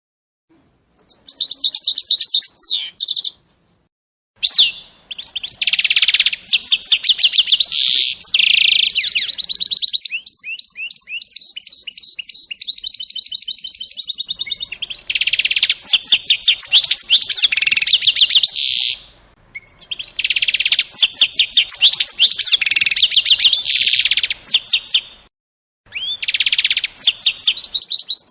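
A small songbird singing long phrases of rapid trills and high chirps, broken by a few short pauses of about a second.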